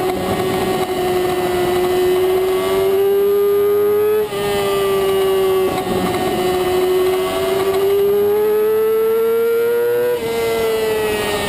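Supersport race motorcycle engine at high revs, its pitch climbing slowly under load, with a sudden drop at each of two upshifts, about four seconds in and near the end. Wind rush on the onboard microphone sits under the engine note.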